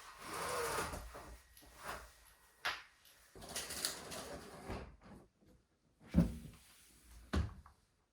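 A cabin window and its shades being handled: sliding and rubbing noises with several knocks, the two loudest knocks near the end.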